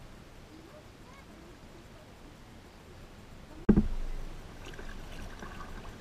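Quiet river ambience heard from a kayak, with a few faint bird chirps. About two-thirds of the way in comes a sudden loud thump, after which a low rumble and a faint steady high tone carry on.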